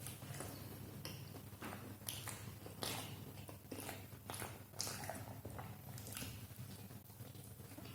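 A person biting and chewing food close to the microphone: irregular wet mouth noises with a sharper bite every second or so, over a faint steady hum.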